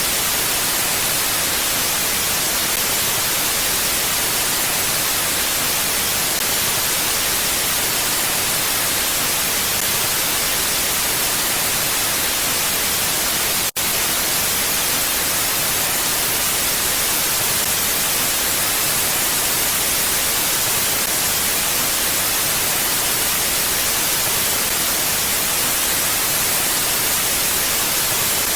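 Steady, even wind hiss with no gusts or swells, strongest in the high range like static. It cuts out for an instant about halfway through.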